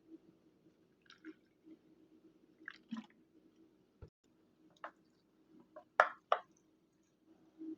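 Scattered soft squishy clicks and taps from hands handling the sprinkler materials, with two louder ones about six seconds in, over a faint steady low hum.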